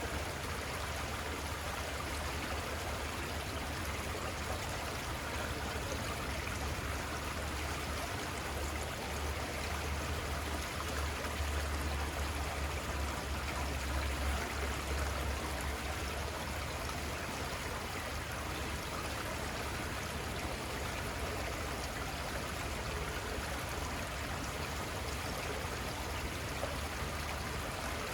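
Little Conestoga River flowing steadily, a constant even wash of running water. A low rumble under it swells for a few seconds around the middle.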